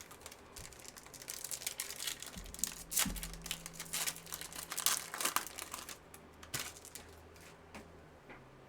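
Foil wrapper of a trading-card pack crinkling as it is handled and opened, busiest for the first six seconds, then a few faint ticks.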